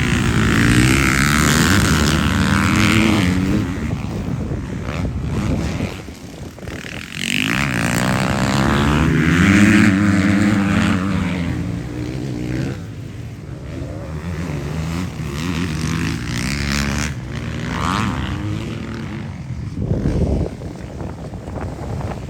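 Motocross bikes racing past, their engines revving up and down through the gears. The loudest passes come about a second in and again around eight to ten seconds in.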